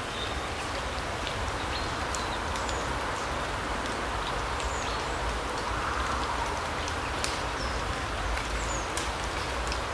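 Forest ambience: a steady rushing hiss with a low rumble underneath, and short high bird chirps dotted through it, with a few faint ticks.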